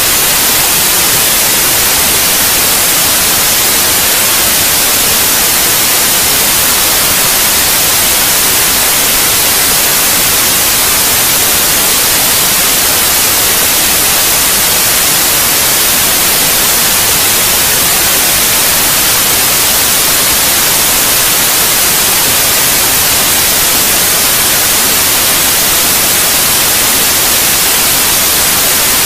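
Steady white noise: an even, unchanging hiss, brightest in the high frequencies, played as a sleep sound for babies.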